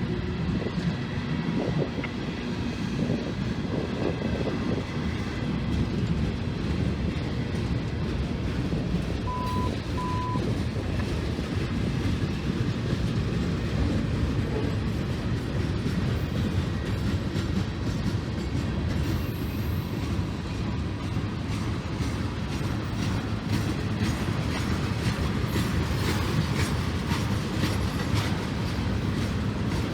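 Union Pacific freight train rolling past, with the steady sound of its wheels running on the rail. Two short beeps sound about a third of the way in.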